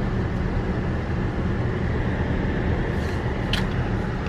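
Steady road and engine noise heard inside a moving car's cabin, with a brief click about three and a half seconds in.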